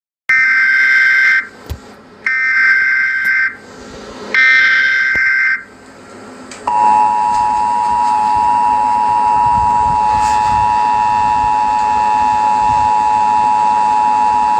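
Emergency Alert System tones for a tornado warning: three harsh, screechy data bursts of about a second each (the SAME header), then about seven seconds in, the steady two-tone attention signal that runs on to the end.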